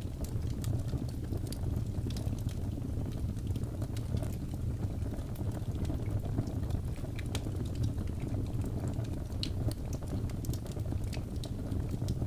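Wood fire burning: a steady low rush of flames with scattered sharp crackles and pops from the burning wood.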